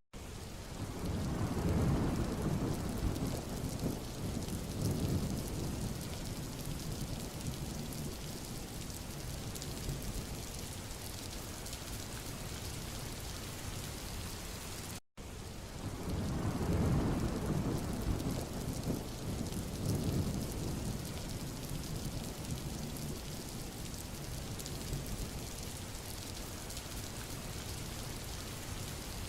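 Steady rain hissing on a road surface. A low rumble swells and fades twice, about a second in and again about sixteen seconds in. The sound cuts out for an instant about fifteen seconds in, where the recording loops.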